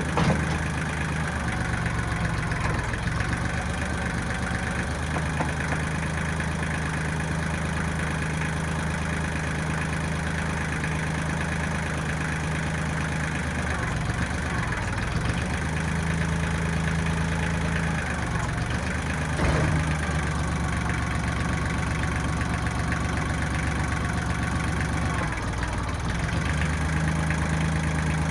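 1995 Kubota backhoe's diesel engine running steadily, its note shifting a few times, with a sharp clank near the start and another about two-thirds of the way through.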